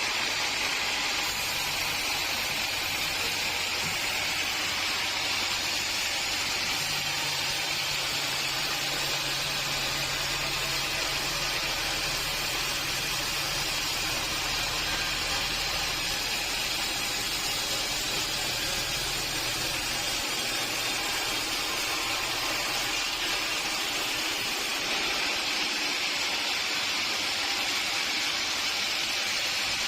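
Sawmill machinery running: a steady hiss over a low mechanical hum that changes a little partway through.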